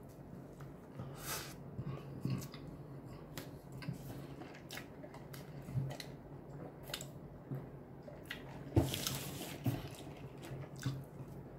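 A man chewing and biting food close to the microphone: wet, squishy mouth sounds and scattered clicks, with a sip through a drinking straw and one louder rushing sound about nine seconds in, over a faint low hum.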